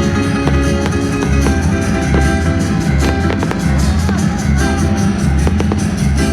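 Loud music with a steady beat, with fireworks bangs and crackles over it throughout.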